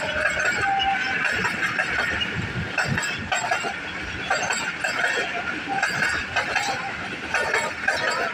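Passenger coaches of a long express train rolling past on the rails: a steady rumble of wheels on track, with irregular clacks as the wheels pass over rail joints.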